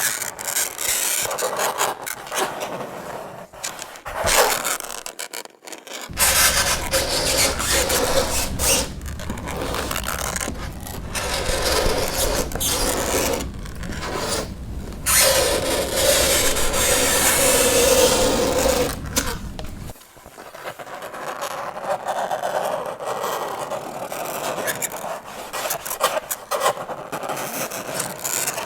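Fingernails scraping across a chalkboard in a series of rasping strokes broken by short gaps, with a drawn-out squeal about halfway through. A low hum runs underneath for part of it.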